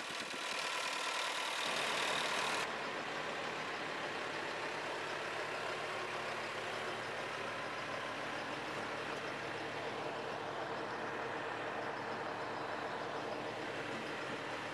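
JCB 3CX Sitemaster backhoe loader's diesel engine running steadily. A louder hissing noise sits over it for the first two and a half seconds, then cuts off suddenly.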